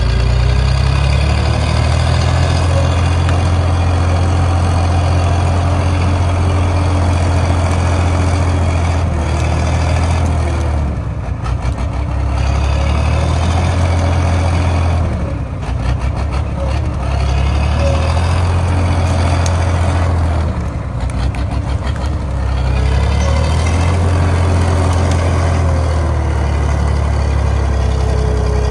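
Heavy truck's diesel engine running hard, a loud steady drone that drops off and picks up again three times, like gear changes.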